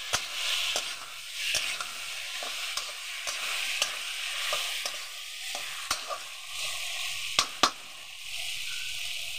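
Tomatoes, onion and spices sizzling in a metal wok while a flat spatula stirs them, with repeated sharp clicks and scrapes of the spatula against the pan. Two louder knocks come about seven and a half seconds in.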